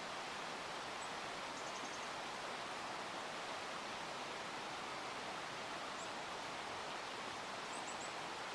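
Faint, very high, thin calls of small birds moving through hemlock trees, over a steady outdoor hiss: a single note about a second in, a quick run of four or five notes just after, another near the middle and three in a row near the end.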